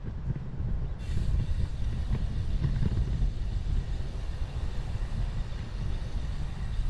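Wind rumbling on the camera's microphone as a bicycle rides along, with a steady hiss of tyres and passing air that grows brighter about a second in.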